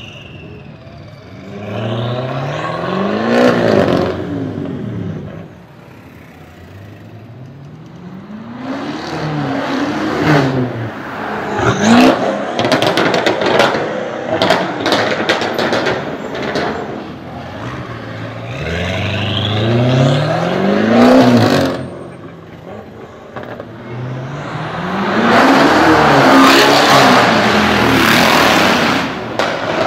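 BMW 650i Gran Coupé's twin-turbo 4.4-litre V8 with a PP Performance tune, accelerating hard several times, each time rising in pitch and then dropping back. About twelve seconds in comes a rapid string of sharp cracks from the exhaust.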